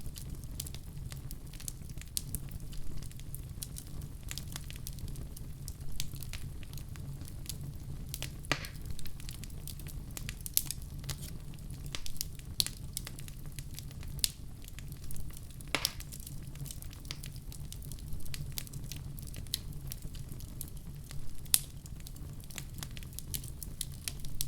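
Wood fire crackling, with irregular sharp pops and snaps over a steady low rumble of burning, and a few louder pops scattered through.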